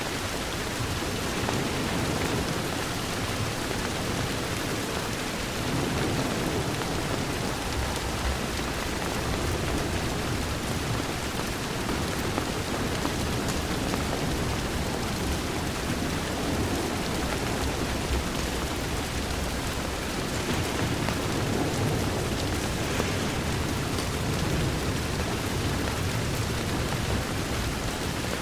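Steady heavy rain pattering against a window, an even wash of noise, with a low rumble swelling and fading now and then.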